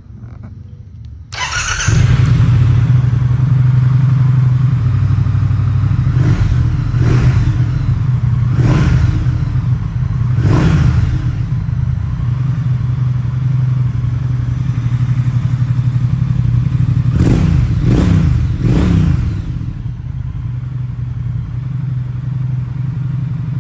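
2019 Triumph Speed Twin 1200's parallel-twin engine firing up about a second in and idling, with a few spaced throttle blips followed by a quick run of three near the end, settling back to idle each time.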